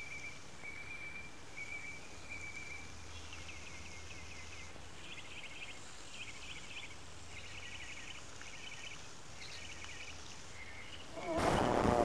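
Backyard ambience with a bird calling over a steady low background hiss: a run of short, even, high notes, then rapid trilled phrases repeated every second or so. Near the end a sudden loud, harsh noise bursts in and lasts over a second.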